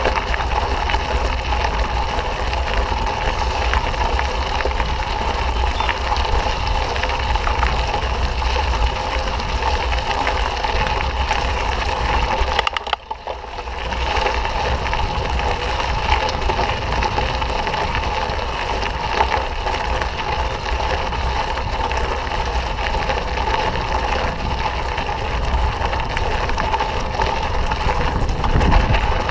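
Steady wind rush on the microphone and tyre and trail rattle from a mountain bike being ridden, dropping away briefly about thirteen seconds in.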